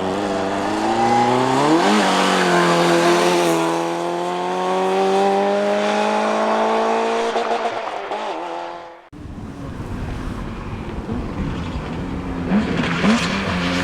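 Rally car engine accelerating hard, its pitch climbing steeply, then held at high revs and slowly rising as the car passes and fades away. After a sudden cut about nine seconds in, another rally car's engine runs with short blips of revs near the end.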